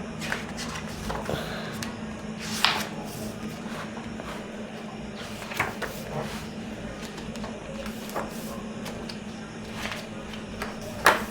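Pages of a large hardcover picture book being turned one after another, each a short papery swish, about five in all with the loudest near the end, over a steady low room hum.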